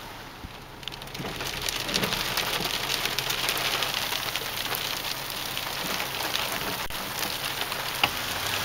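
Small hail mixed with rain hitting surfaces, a dense hiss of many sharp ticks that grows louder about a second in.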